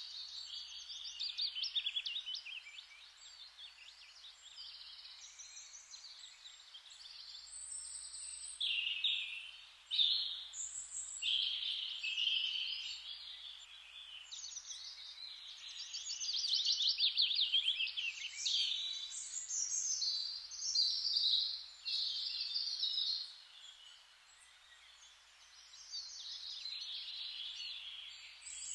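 Songbirds singing, several overlapping high-pitched trills and chirping phrases, with quieter gaps between bursts of song over a faint steady hiss.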